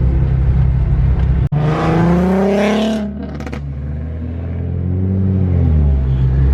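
Car engine running with a steady drone, then revving hard with a quickly rising pitch about two seconds in and easing off about three seconds in, before settling back to a steady drone.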